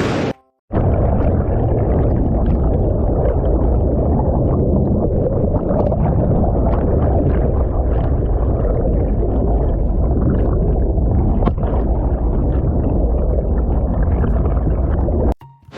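Rushing mountain-stream water, heard muffled and deep, with faint scattered clicks through it. It starts abruptly just after the beginning and cuts off just before the end.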